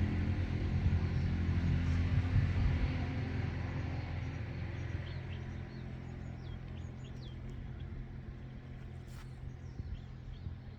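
A motor vehicle's engine running with a steady low hum, loudest in the first few seconds and then fading away. Birds chirp faintly from about halfway through.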